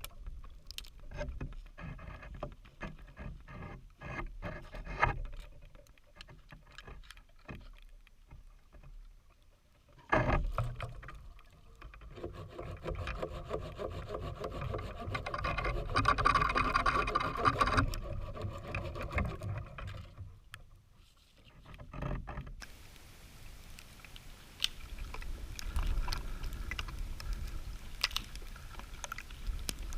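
Dry dead oak branches being snapped and handled: sharp cracks and knocks, with a louder stretch of wood rubbing and grinding in the middle.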